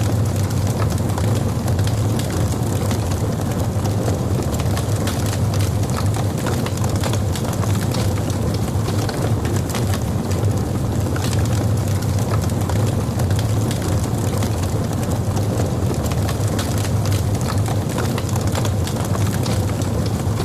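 Logs burning in a fireplace: a steady low rumble of the fire with frequent small crackles and pops throughout.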